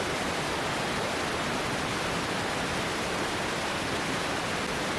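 Mountain headwater stream flowing, a steady rush of water.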